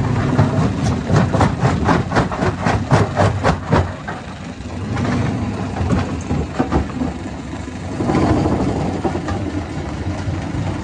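Hammer-type stone crusher running with a steady low engine drone, and a quick run of sharp knocks of rock being struck, about four a second, for the first few seconds, then a few scattered knocks.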